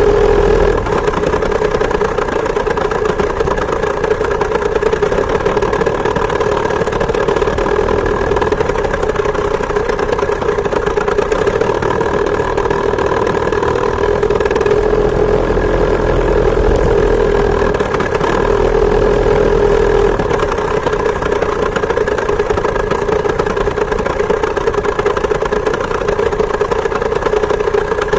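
Two-stroke chainsaw engine powering a homemade moped, running steadily and loudly, its pitch shifting a little up and down.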